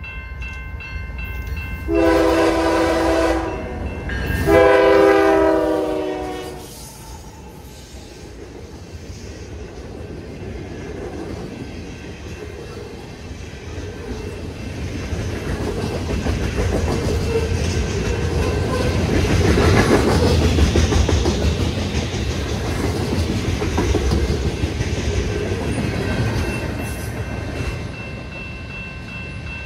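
Freight train horn sounding two blasts, about two and four seconds in, the second longer. Then a long freight train's cars rumble and clatter past over the rails, growing louder toward the middle. A grade-crossing bell rings near the end.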